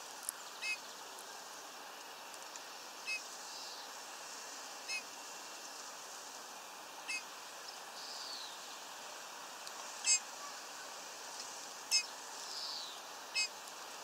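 Small songbirds calling: short, sharp calls about every two seconds, a few faint falling notes between them, over a steady hiss.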